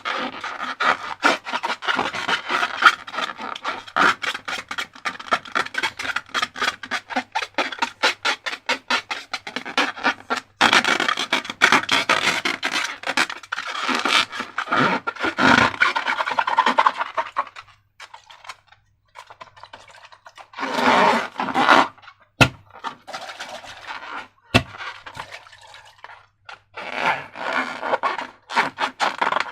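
Slime being worked by hand, with a dense run of rapid sticky clicking and scraping. It breaks off past the halfway point into shorter bursts, two sharp single clicks and another burst near the end.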